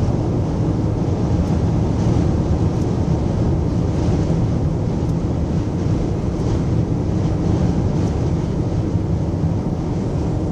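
Steady wind and road noise inside a moving car's cabin while driving through a sandstorm.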